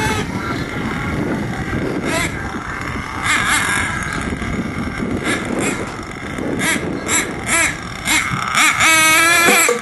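HPI Savage radio-controlled monster truck's engine running and revving up and down.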